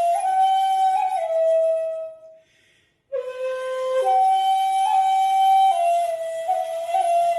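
A flute playing a slow melody of long held notes, one note at a time. It stops for under a second about two and a half seconds in, then resumes.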